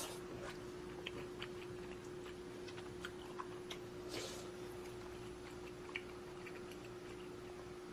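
Faint, irregular small clicks and ticks over a steady low hum, with a soft brief rush about four seconds in.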